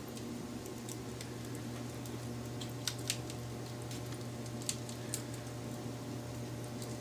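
Wood fire crackling softly, with about four sharp pops in the middle stretch, over a steady low hum.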